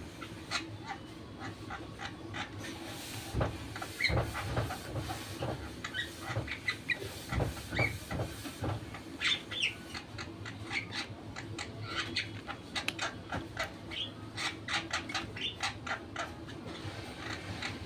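Sooty-headed bulbul giving short, scattered chirps, mixed with many clicks and knocks over a steady low hum.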